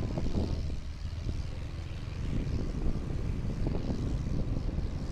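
Motorcycle engine running while riding, a steady low drone mixed with wind rumbling on the microphone.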